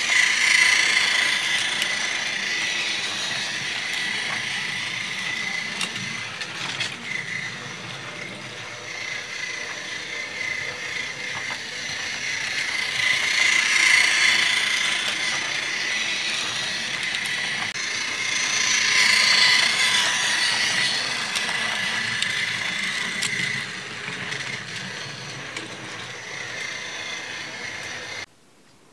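Trackmaster Percy battery-powered toy train engine running around a plastic track loop, its small electric motor and gears giving a steady whirring whine. The sound grows louder and fainter by turns as the engine comes near and moves away, then cuts off abruptly near the end.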